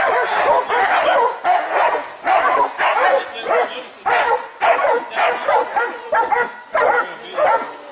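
Several dogs barking and yelping at a bear, their calls overlapping almost without pause.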